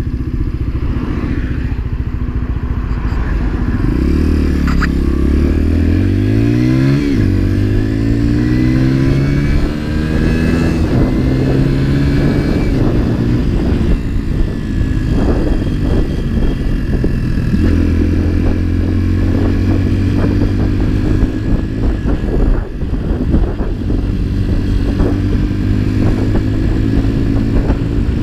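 Motorcycle engine ticking over, then pulling away about four seconds in, its pitch climbing in steps through the gear changes before settling into a steady cruising note.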